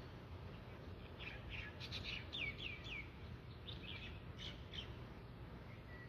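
A bird calling in a run of short chirps, several of them quick downward-sliding notes. They start about a second in and stop near the end.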